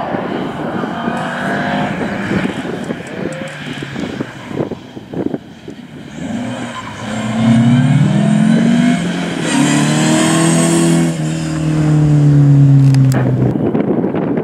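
Mercedes-Benz W123 rally car's engine accelerating hard, its note climbing through two or three gear changes as it comes close. It holds a loud, slowly falling note and cuts off sharply near the end.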